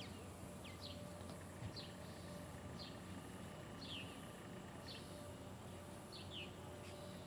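Faint bird chirps: short, high notes falling in pitch, repeated irregularly about once a second over a low steady hiss.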